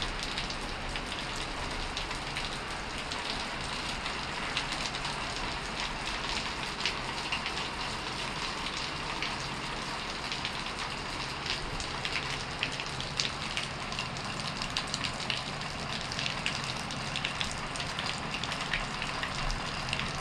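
Rain falling steadily in a thunderstorm, an even hiss with many sharp ticks of drops landing close by. No thunder.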